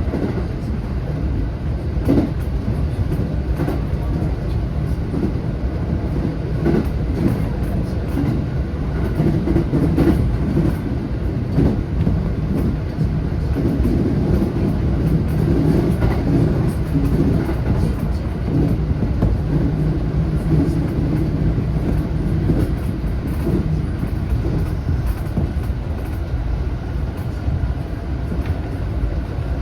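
A JR West 227-series electric train running along the line, heard from inside the front car: a steady low rumble of wheels on rail with scattered clicks, and a low hum that swells and fades in the middle stretch.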